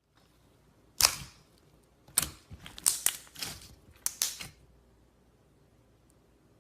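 Slime being squeezed and pressed, giving sharp crackling pops in about five irregular bursts.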